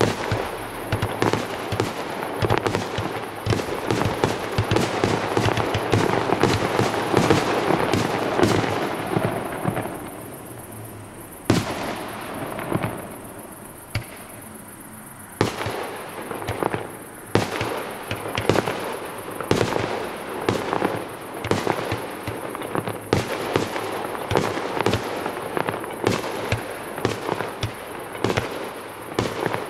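Fireworks going off: dense rapid crackling and bangs, easing off about ten seconds in to a quieter stretch broken by a few single sharp bangs, then picking up again with repeated bursts of cracks and bangs.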